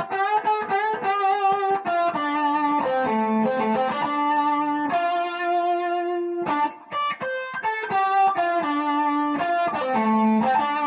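Electric guitar with distortion playing a fast blues lead run in D high on the neck, around the 10th fret. Rapid-fire strings of short notes alternate with a few held notes with slight vibrato, with a brief break a little past the middle.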